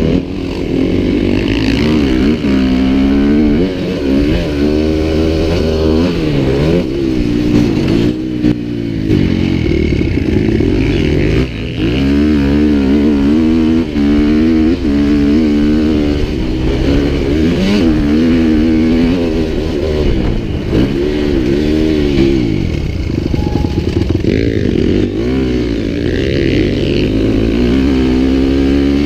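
Adventure motorcycle engine running under way, its pitch rising and falling again and again as the throttle is opened and closed through the gears.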